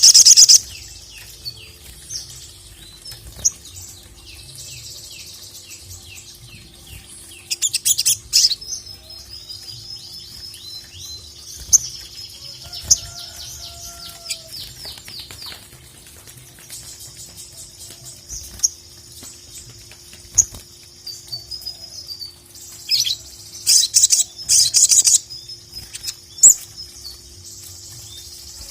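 Little spiderhunter (sogok ontong) singing: long runs of high, sharp notes with strings of quick falling chirps, and loud, rapid trilled bursts about eight seconds in and again near the end.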